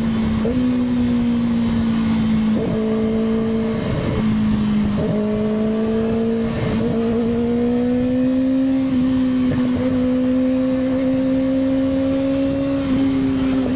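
Motorcycle engine running steadily while riding, its note creeping slowly higher, with a few brief dips and breaks along the way.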